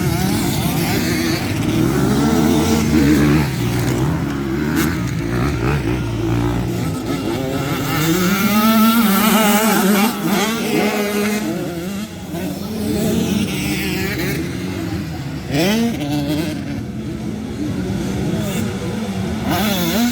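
Several motocross bikes racing past, their engine pitch rising and falling as the riders open and close the throttle. There is a quick, sharp rev about three-quarters of the way through and another near the end.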